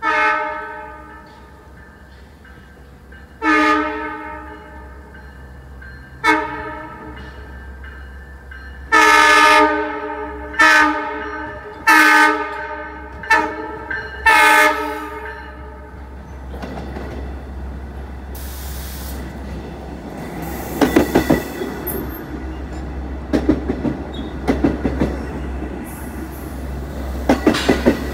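Long Island Rail Road push-pull train with a C3 bilevel cab car leading, sounding its multi-tone air horn in a string of about nine blasts, the first few long and the later ones shorter and closer together. It then rolls past close by, a steady rumble with wheels clacking in quick groups over rail joints.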